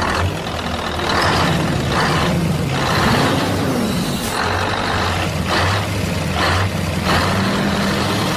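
Low mechanical hum with about eight short bursts of hiss at irregular intervals.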